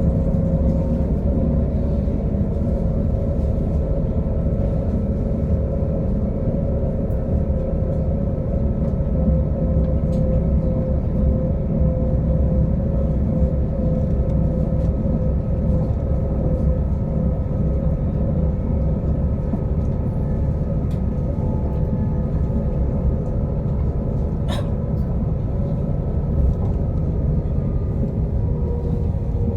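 Passenger train running along the line, with a steady rumble and a steady whine that sinks slightly in pitch. A single sharp click comes about three quarters of the way through.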